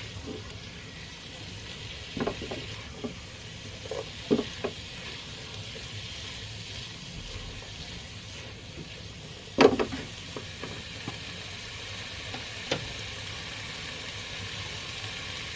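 Food frying in a pan with a steady sizzle, stirred with a utensil that knocks and scrapes against the pan a few times; the loudest knock comes about ten seconds in.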